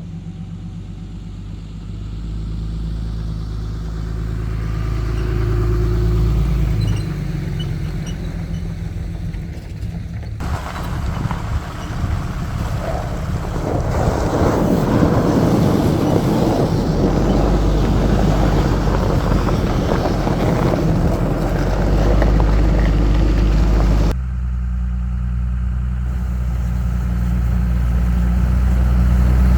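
Ram 2500 pickup truck driving, its engine running steadily under road and tyre noise. The sound changes abruptly about ten seconds in and again near the end, with the noisier rumble strongest in between.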